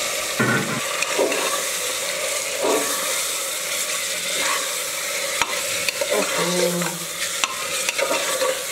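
Marinated mutton sizzling in hot oil in a pressure cooker, with a spoon stirring it and now and then clicking and scraping against the pot.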